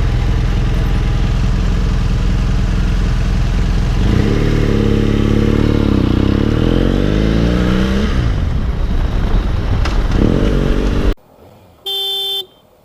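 Motorcycle engine running under wind noise; from about four seconds in its pitch rises and falls with throttle and gear changes. The sound cuts off abruptly near the end, followed by a short electronic beep.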